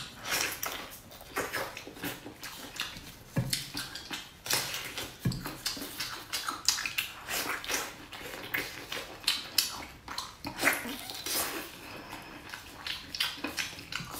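Close-up wet chewing of braised pig stomach, with irregular sharp lip smacks and squelches as the meat is bitten and torn.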